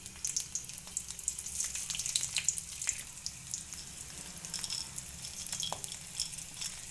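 Garlic and cumin seeds sizzling in hot oil in a pan, with scattered small crackles: the whole spices are being lightly fried before they are ground into a masala.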